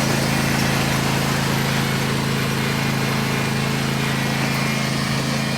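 Small lawn mower engine running at a steady speed, its hum even throughout.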